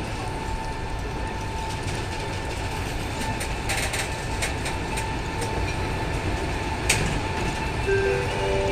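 EP20 electric locomotive and its passenger train rolling slowly into the station, with a steady rumble that grows gradually louder and a steady high-pitched tone. Wheels click over rail joints in a run from about three and a half seconds in, with one sharper click about seven seconds in.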